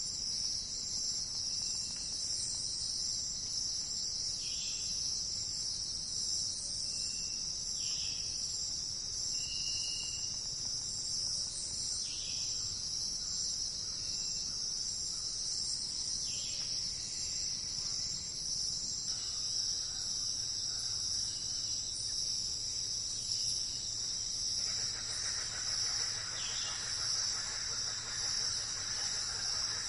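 Forest ambience: a steady high-pitched insect chorus, with a bird giving a short descending call every few seconds. Near the end a soft rustling hiss rises.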